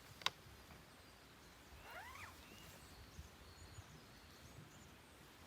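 Quiet forest ambience with birds calling: a few quick rising and falling chirps about two seconds in, and fainter high chirps later. A single sharp click comes just after the start.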